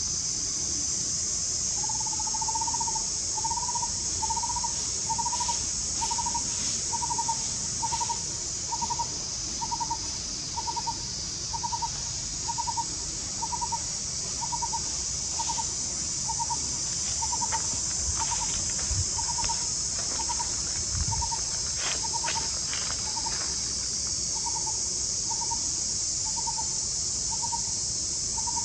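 A forest bird repeating one short note at an even pace of about one and a half a second, over a steady high drone of insects, with a few faint clicks in the middle.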